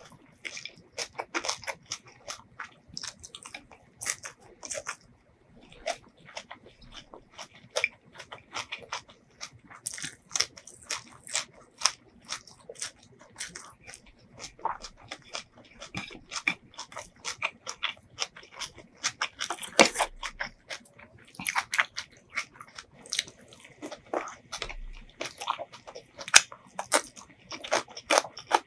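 Close-miked eating sounds: chewing and crunching of food in an irregular run of short crisp clicks. A louder crunch comes about twenty seconds in.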